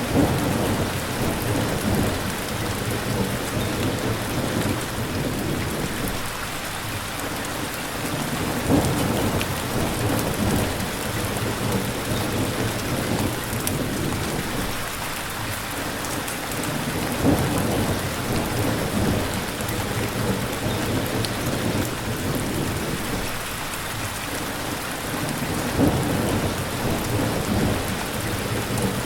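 Steady rain with low rumbles of thunder swelling and fading about every eight to nine seconds.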